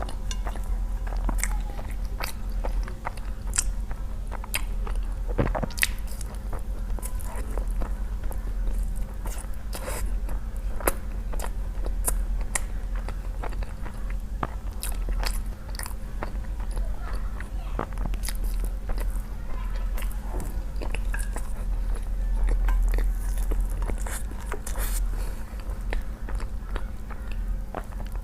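Close-miked chewing and biting of thin sesame-chili noodles: many short mouth clicks and smacks at an uneven pace, over a steady low hum.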